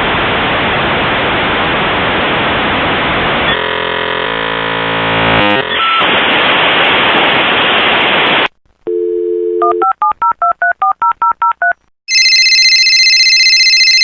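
Steady static hiss for the first eight seconds or so, then a telephone dial tone, a quick run of about a dozen touch-tone keypad beeps, and a steady high electronic tone near the end.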